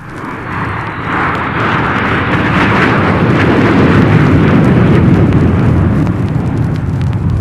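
Jet aircraft roar swelling up over about a second, bright at first, then holding as a deep, rumbling noise. It is heard off a worn vinyl record with surface crackle and pops.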